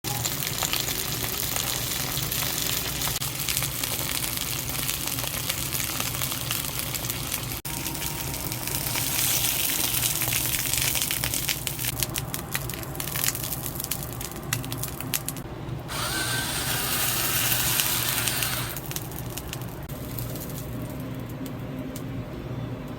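Cooking sounds over several abrupt cuts: a steady crackling hiss full of small clicks, like napa cabbage searing in a hot pan, with a low steady hum underneath.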